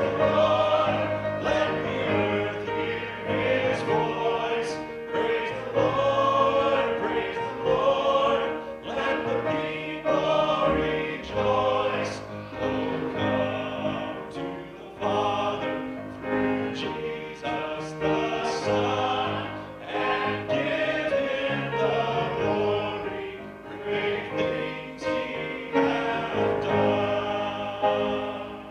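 Vocal group singing a gospel song in harmony, with instrumental accompaniment.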